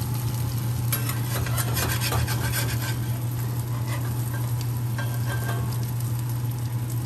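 Battered squash blossoms frying in hot grapeseed oil in a cast-iron skillet, a steady sizzle, with a metal spatula scraping and tapping against the pan as they are turned and lifted out, most busily about one to three seconds in. A steady low hum runs underneath.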